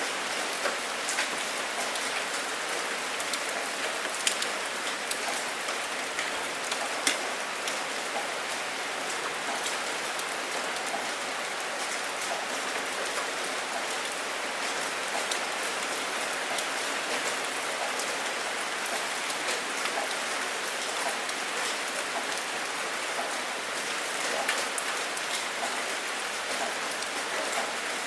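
Steady heavy rain falling, with scattered sharper drop hits, a couple of louder ones about four and seven seconds in.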